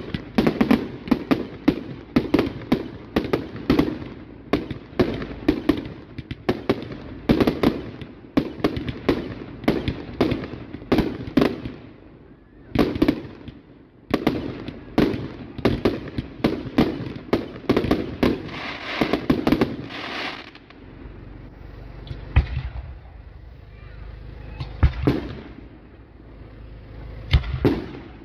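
Aerial fireworks display: a rapid run of sharp bangs, several a second, for about the first twenty seconds, then fewer, more spaced bangs over a low rumble.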